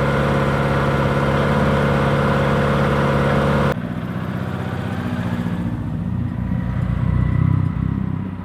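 Rally car engine running at a steady speed. About four seconds in there is a sudden cut to a rougher, lower engine sound that grows louder and then falls away near the end.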